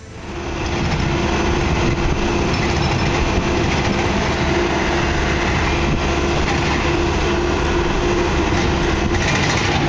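A heavy diesel engine running steadily at a constant throttle: an even mechanical rumble with a steady hum through it.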